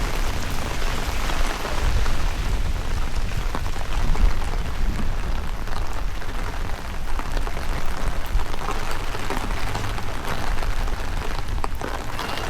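Steady rain falling and pattering on surfaces, dense with small drop ticks, with strong gusting wind buffeting the microphone as an uneven low rumble.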